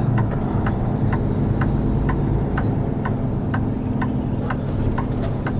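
Semi truck's diesel engine running steadily in the cab, with a turn-signal relay clicking about twice a second.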